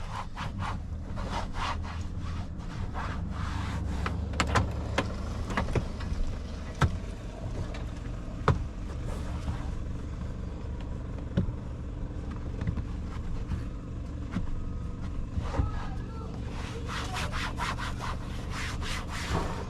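Rubbing, scraping and scattered clicks and knocks of hand-cleaning a ute's interior vinyl and plastic trim, over a steady low hum.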